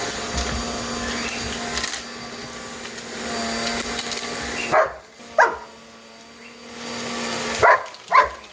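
Vacuum cleaner running steadily with a constant hum, then falling away about five seconds in. A shepherd dog barks at it twice, then barks again several times near the end.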